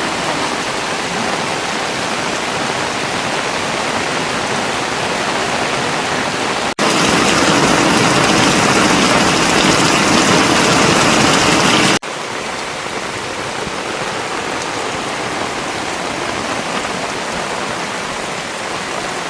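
Heavy rain falling steadily, a dense even hiss of water. It jumps abruptly louder and brighter about seven seconds in and drops back just as suddenly about five seconds later.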